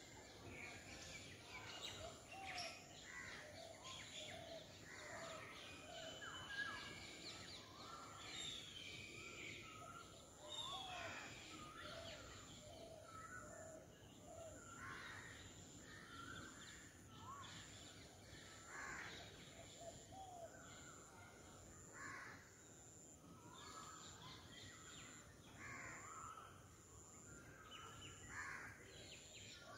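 Several birds chirping and calling in short, overlapping calls, faint and continuous. A steady high-pitched tone runs behind them.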